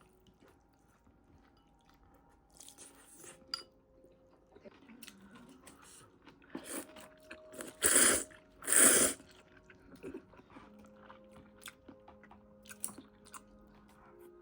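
Someone biting and chewing crunchy food close to the microphone, with two loud crunches about eight and nine seconds in.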